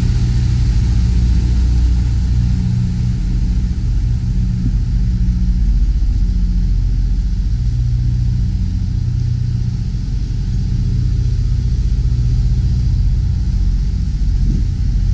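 Diesel engine of a semi tractor running at low speed, a steady low rumble with slight shifts in its tone.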